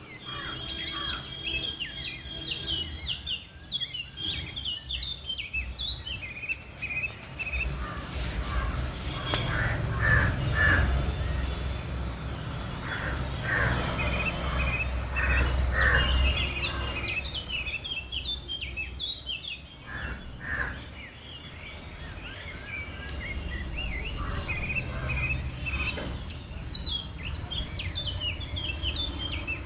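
Songbirds chirping and twittering in quick runs of high notes, with a low rumble underneath that swells in the middle.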